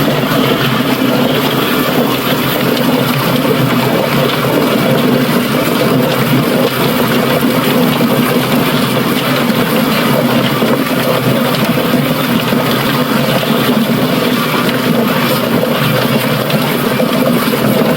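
Automatic drum chicken plucker running steadily, its spinning drum of plucking fingers tumbling a scalded bird while water is poured in. A steady motor hum sits under a dense wash of water and slapping noise.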